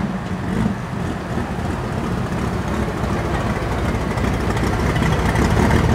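A Limited Super Stock pulling tractor's engine running at idle, a steady low rumble that grows slightly louder toward the end.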